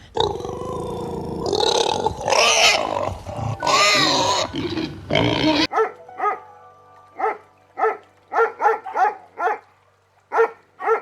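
Animal calls: a loud, rough stretch of calling for about five and a half seconds that cuts off suddenly, then about a dozen short calls of one pitch at irregular spacing.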